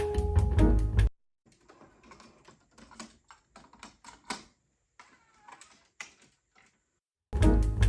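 Music playback cuts off about a second in. Then come a few seconds of faint, irregular clicks and light taps, like keys or buttons being pressed, before the music starts again near the end.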